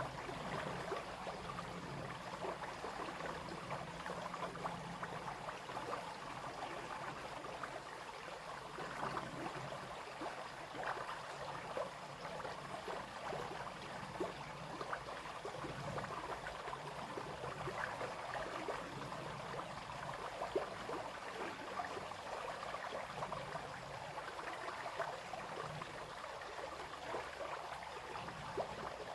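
Small brook babbling and splashing steadily over stones, with many small splashes scattered through it.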